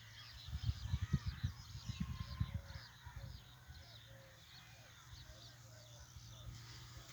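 Outdoor nature sound: many birds chirping and calling in quick, repeated short notes, with low thumps during the first three seconds.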